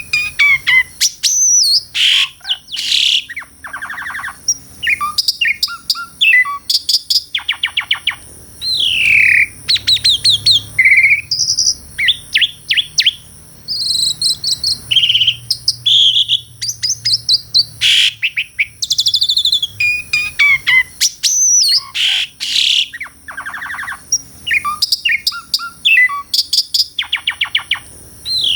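Asian pied starling (jalak suren) singing almost without pause: a varied, chattering song of downward-sliding whistles, quick rattling runs of repeated notes and buzzy phrases.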